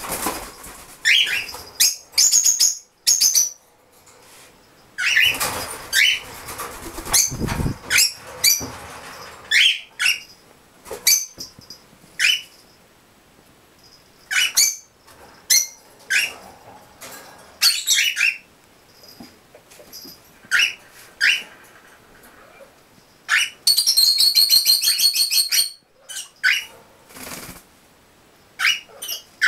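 Pet gray birds fluttering their wings and giving short sharp chirps, repeated on and off, with a harsh rattling call of about two seconds near the end.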